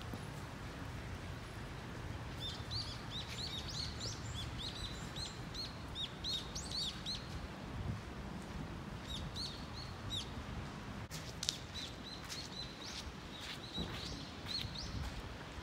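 Small songbirds chirping in quick runs of short, high, down-slurred notes, in three bouts, over a steady low outdoor rumble. A few sharp clicks come about two-thirds of the way through.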